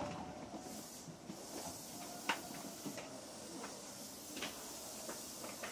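Quiet steady hiss of an Osaka Metro 66 series electric train standing at a station, with a few faint clicks.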